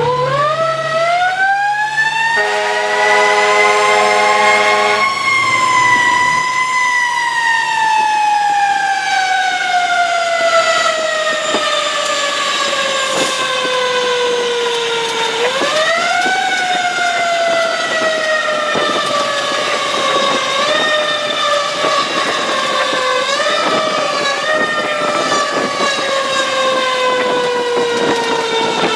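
Fire engine's mechanical siren winding up to a high pitch, then slowly coasting down, wound up again about halfway through and given several short pushes near the end. A steady air-horn blast sounds over it for a few seconds, from about two seconds in. The engine is running an emergency response.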